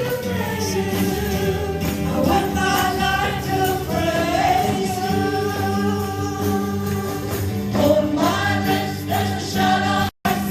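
Worship song: voices singing together over a band with a steady bass line, cut off by a brief dropout about ten seconds in.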